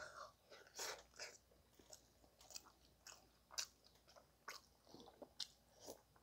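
Faint close-up chewing and mouth sounds of a man eating spoonfuls of curry rice, with scattered soft clicks.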